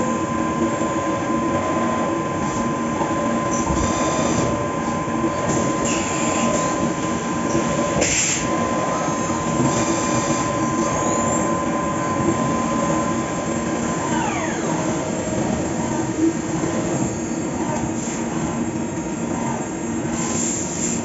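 Fagima Jazz M 5-axis CNC milling machine cutting a part: steady spindle and cutting noise with a high, steady whine that stops about two-thirds of the way through, and a brief sharper noise near the middle.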